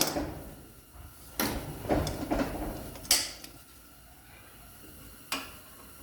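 Metal tool clanks and scrapes as a wrench and socket work the caliper bracket bolts loose on a brake assembly: a few separate knocks, the loudest about three seconds in, with a short rattle between them.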